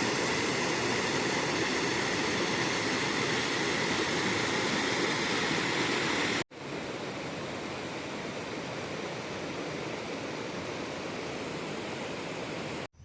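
Steady rushing of flowing water, like a mountain stream or waterfall. About six and a half seconds in it cuts off abruptly and resumes somewhat quieter.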